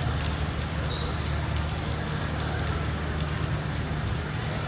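Steady rain falling, with a steady low hum underneath.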